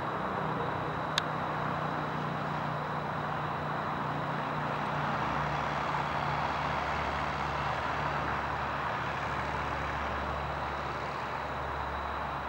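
Steady engine noise running throughout, with a deeper hum joining about five seconds in, and one sharp click about a second in.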